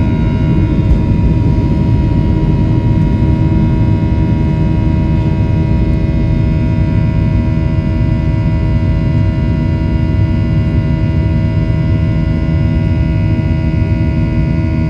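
Boeing 737-800's CFM56 jet engines running steadily, heard as a constant cabin rumble with several steady whining tones above it.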